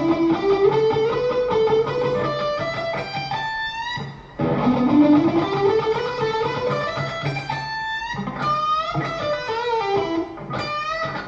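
Electric guitar playing a fast double-picked run up the E minor pentatonic scale, each note picked twice, climbing the neck and ending on a string bend. The run is played twice, with a short break about four seconds in.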